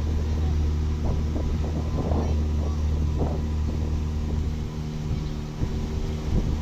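A small motorboat's engine running at a steady speed, a constant low drone.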